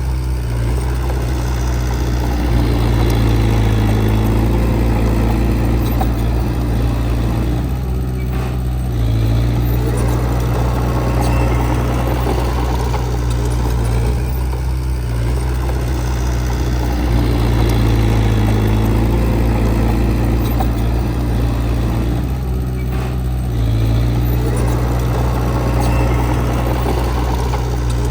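Diesel engine of heavy earthmoving equipment running continuously, its note swelling and easing in a repeating cycle about every seven seconds as the machine works.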